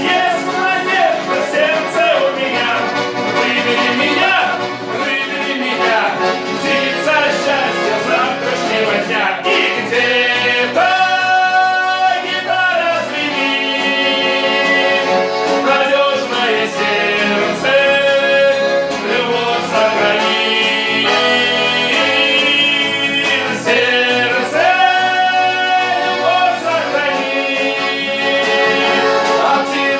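Garmon (Russian button accordion) and guitar playing a song, with singing.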